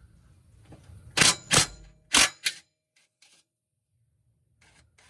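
Cordless impact wrench hammering in four short bursts, two pairs about half a second apart, breaking the front cross-beam bolts loose.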